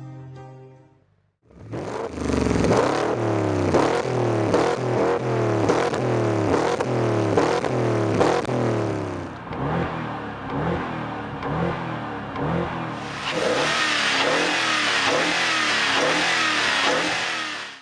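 Wiesmann GT MF4's BMW V8 revving through its exhaust, the pitch sweeping up and dropping back again and again. Near the end a broader rushing sound joins in, with the engine still running under it.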